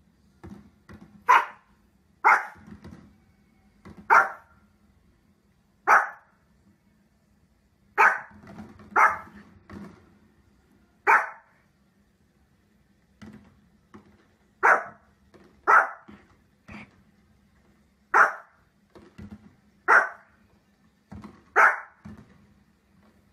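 A Pomeranian barking in single sharp barks, about a dozen of them spaced one to two seconds apart, with softer sounds between them. A faint steady hum runs underneath.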